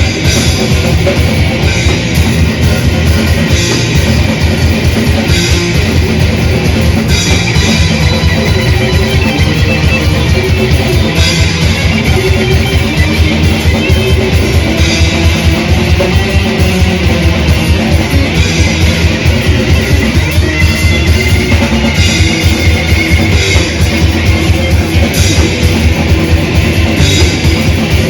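Live death/thrash metal band playing loud and fast: rapid drum-kit beats under distorted electric guitars and bass, without a break.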